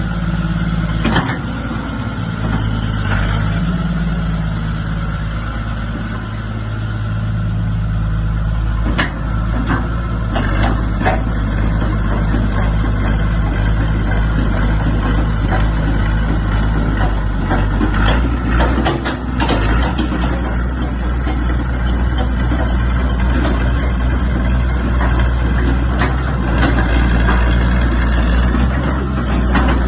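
Hitachi UH062 13-tonne excavator's diesel engine running steadily, with scattered sharp knocks and clanks over it.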